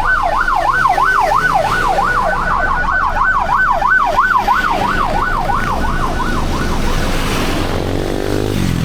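Emergency vehicle siren on a fast yelp, its pitch rising and falling about three times a second. It fades away about seven seconds in, leaving traffic rumble.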